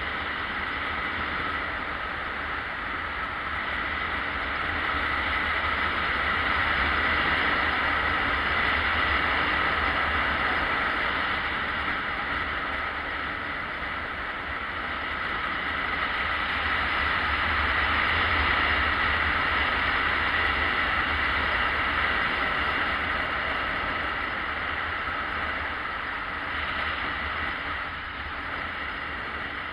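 Yamaha XJ600S Diversion motorcycle on the move: its inline-four engine running steadily under wind and road noise, the level rising and falling gently.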